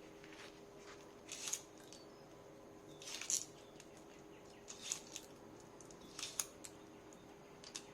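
Short, crisp rustling snips or scrapes from hand work, about five of them spaced a second or so apart, over a faint steady hum.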